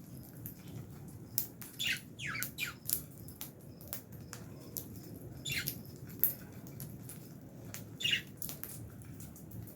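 Lovebirds in an aviary giving short, high chirps that fall in pitch, a few times, amid many sharp clicks and taps.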